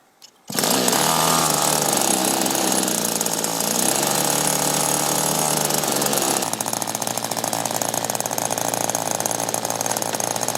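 Drone motors and propellers buzzing loudly. The sound starts abruptly about half a second in and changes character about six and a half seconds in.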